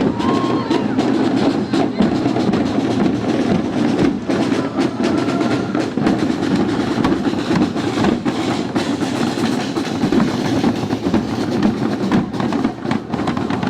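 A marching drum band playing in a street procession, snare drums rattling over the other drums in a dense, continuous beat.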